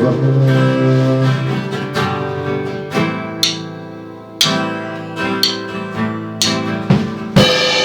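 Music: a guitar strumming chords in an instrumental break between sung lines, with a stroke about once a second and a brief dip in loudness partway through.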